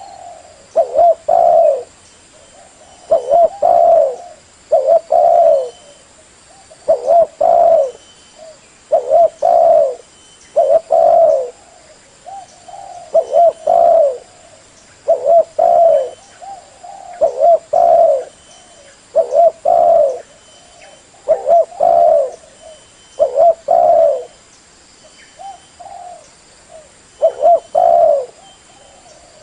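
Spotted dove cooing over and over: short phrases of two or three low coos, repeated about every two seconds, with a few longer pauses.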